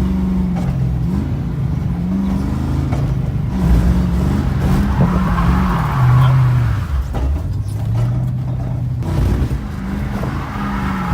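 Car engine revving up and down repeatedly through a drift run, its pitch rising and falling several times as the throttle is worked.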